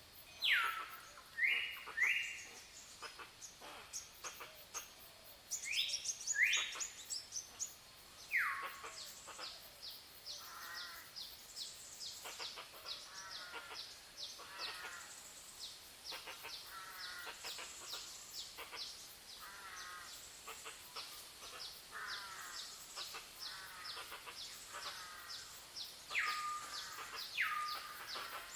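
Several wild birds calling in a jungle chorus. Loud whistled notes sweep steeply down in pitch, several times in pairs, over a continuous chatter of short high chirps and trills.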